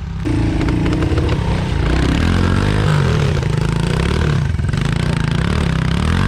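Pit bike engine running and revving, its pitch rising and falling repeatedly as the rider works the throttle, getting louder just after the start.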